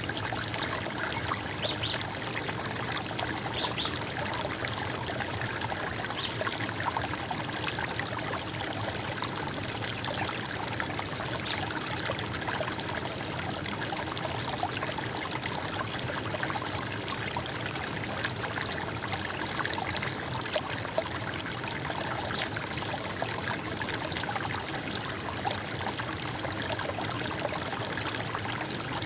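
Running water trickling and splashing steadily, with no break or change.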